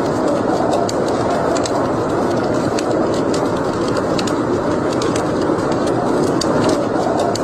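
Wood fire burning in a fireplace: a steady rushing noise with frequent small sharp crackles and pops at irregular intervals.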